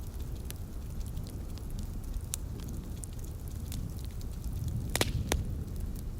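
Wood fire crackling in a fireplace: scattered sharp pops and snaps, with two louder pops close together about five seconds in, over a steady low rumble.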